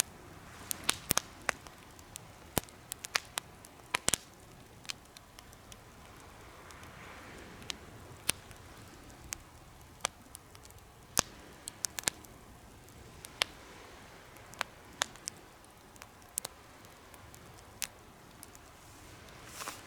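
Campfire crackling: irregular sharp pops and snaps over a faint steady hiss, the loudest pops about a second in and about four seconds in.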